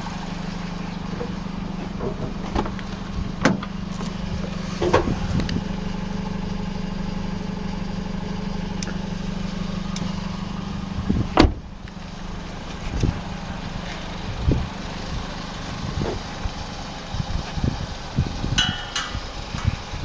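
Toyota 1NZ-FE 1.5-litre four-cylinder petrol engine idling steadily, with a few light clicks. About halfway through, a loud clunk comes and the engine's hum stops, as when it is switched off; scattered knocks and clicks follow.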